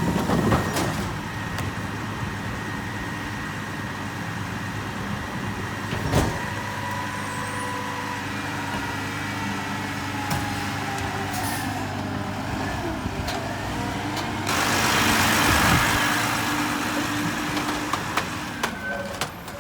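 Mack MRU McNeilus rear-loader garbage truck running, with a faint whine that slowly changes pitch. About three-quarters of the way through comes a loud hiss of air lasting about two seconds, and there is a single knock a few seconds in.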